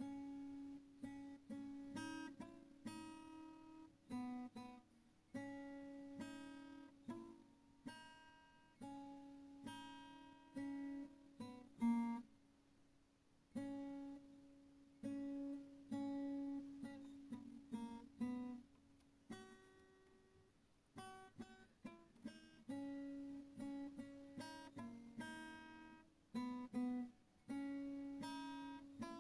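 Background music: solo acoustic guitar playing a melody of plucked notes, each ringing and fading.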